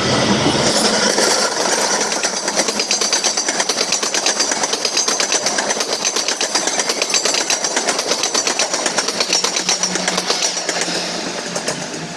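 Fast train passing close by at speed, its wheels clattering over the rail joints in a rapid, even rhythm, with a steady high-pitched whine over it.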